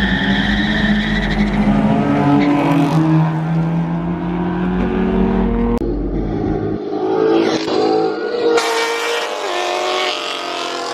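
Car engines revving hard and accelerating, with tyre squeal and skidding. The engine note changes abruptly about six seconds in and again a couple of seconds later.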